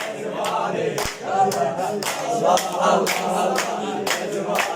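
Several young men singing together without instruments, a group chorus of an Iraqi song, with sharp hand claps keeping a steady beat about two to three times a second.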